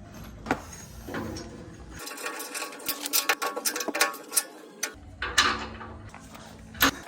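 Small metal clicks, taps and clinks from hand tools and brass fittings being handled and tightened, in a small room.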